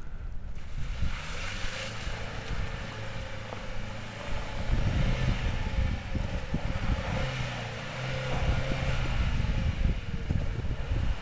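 Manual Ford Focus engine revving in surges, pitch stepping up about halfway through and again later, as the driver tries to get the car moving in deep snow; wind blows on the microphone throughout.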